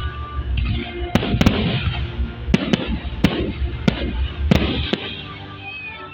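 Fireworks display: a string of sharp bangs from shells bursting, about seven in four seconds, over continuous crackling. A low rumble underneath drops away near the end.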